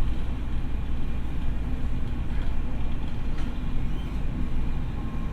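Cabin running sound of a former Tokyo Metro 6000 series electric multiple unit: a steady low rumble of wheels on rail and running gear, with faint steady whining tones and one brief click about three and a half seconds in.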